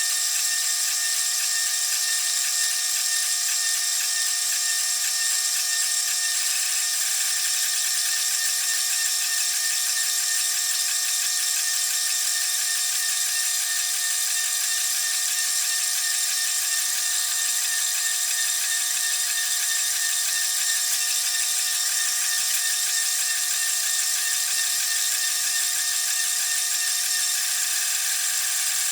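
A power tool running steadily with a high-pitched whine and no pauses.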